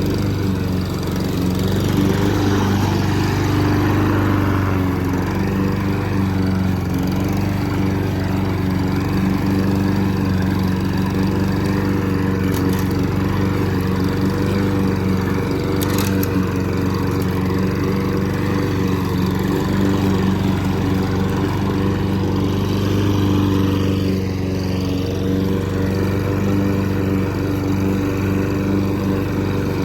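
Lawn mower engine running steadily under load while cutting thick, overgrown grass.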